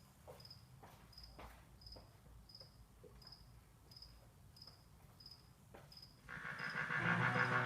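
A short high chirp repeating evenly about one and a half times a second over faint background noise, with a few faint clicks. About six seconds in, loud music starts.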